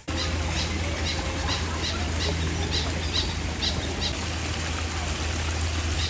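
A bird giving a run of short, high chirps, about three a second, that stops about four seconds in. A steady low hum runs beneath it.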